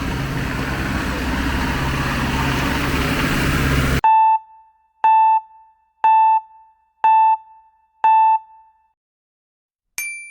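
Heavy rain with a low engine hum, cut off abruptly about four seconds in. In dead silence follow five short electronic beeps at one per second, all at one pitch, then a single higher, brighter beep near the end, like a countdown sound effect edited into the video.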